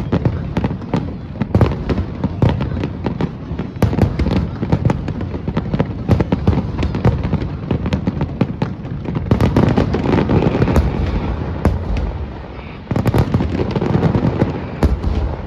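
Aerial fireworks going off in rapid, overlapping succession: many sharp bangs and crackles over a continuous low rumble, with a brief lull about twelve seconds in before another dense cluster of bursts.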